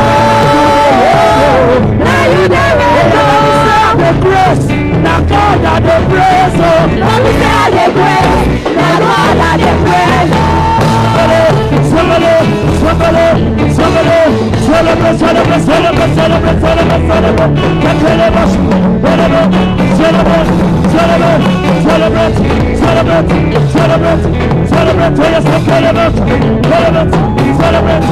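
Live gospel band music at a steady upbeat pace, with drums and a short melodic riff repeating over and over from about a third of the way in.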